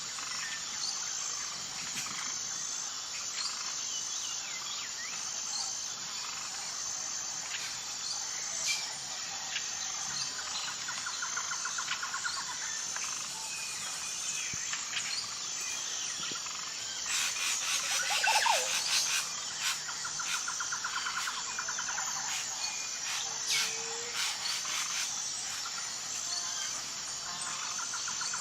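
Wild birds chirping and calling over a steady high, evenly pulsing chirp, with short repeated trills; a louder flurry of calls comes about two-thirds of the way through.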